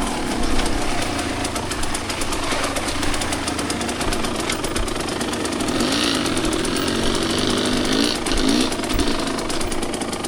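Two-stroke dirt bike engine running at low revs with a fast, even popping beat, the revs dipping and picking up again a few times as the throttle is worked.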